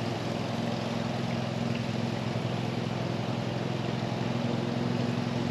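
Sliced potatoes frying in hot grease in a skillet, a steady sizzle, with a steady low hum underneath.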